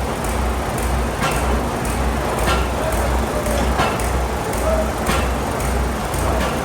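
750 kg pneumatic forging hammer running, a low rhythmic chugging about one and a half times a second, with a lighter knock about once a second.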